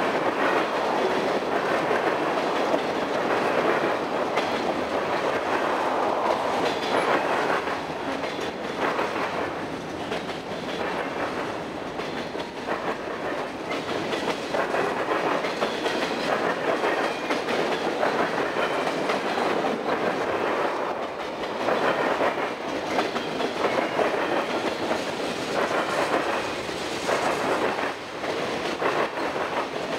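Freight cars (tank cars, covered hoppers and boxcars) rolling past close by: a steady rumble of steel wheels on rail, with repeated clicking and clacking as the wheels cross rail joints.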